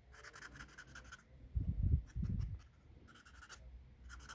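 Felt-tip pen scribbling quickly back and forth on a cardboard toilet roll tube, colouring it in, in runs of rapid strokes. Two short low rumbles come about a second and a half in, louder than the pen.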